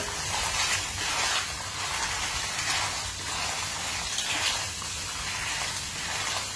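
Pre-boiled lala clams sizzling in hot chili paste and oil in a nonstick wok as they are stirred with a wooden spatula. The hiss is steady, with brief louder swells as the spatula turns them.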